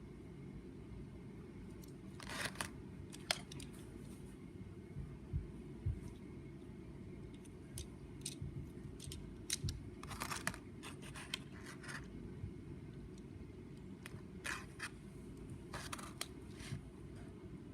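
Plastic LEGO Technic parts clicking and scraping at irregular intervals, some in short clusters, over a steady low hum.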